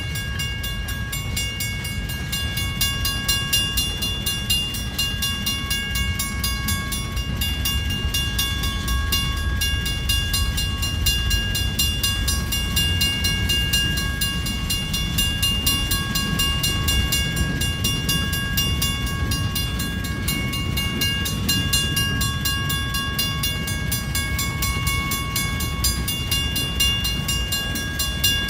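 Freight train of tank cars and covered hoppers rolling past: a steady low rumble of wheels on rail, with high ringing tones over it that drop out and return every few seconds.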